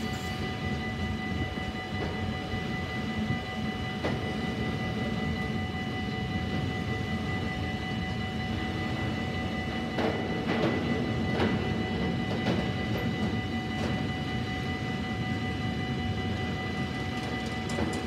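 Freight train of gas tank wagons rolling past: a steady rumble of wheels on the rails, with steady high-pitched tones running throughout. A few sharp clacks come about ten to twelve seconds in as wheelsets cross rail joints.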